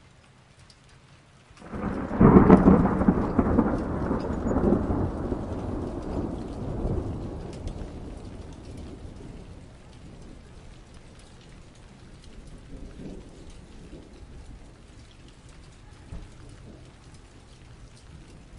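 A thunderclap breaks suddenly a couple of seconds in and rolls into a long rumble that slowly fades, over steady hail pattering.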